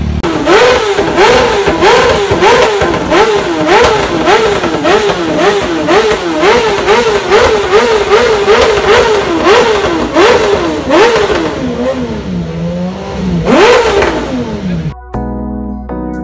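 Motorcycle engine revved in quick throttle blips, about three a second, each rev rising and snapping back with a sharp crack from the exhaust. Near the end the blips slow and fall back, and one last rev follows.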